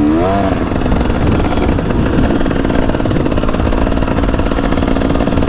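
KTM 300 EXC two-stroke single-cylinder dirt bike engine under way on a motocross track. The revs rise briefly near the start, then the engine runs at a steady throttle.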